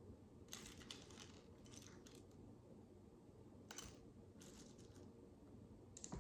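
Tiny plastic micro bricks being handled and clicked together, faint over a quiet room hum: several short clusters of light clicks and rattles, with the sharpest click near the end.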